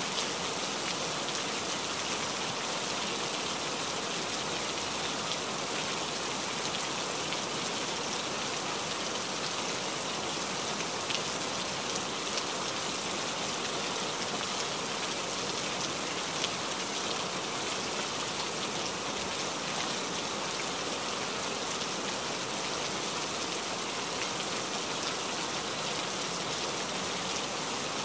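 Steady rain, an even hiss with a few sharper drop ticks here and there.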